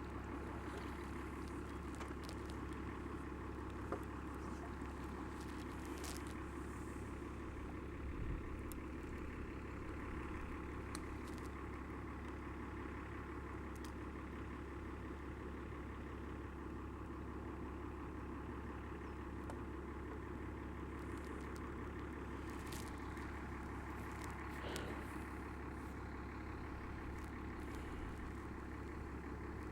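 Pond aerator running with a steady low mechanical hum, with a few faint clicks and taps over it.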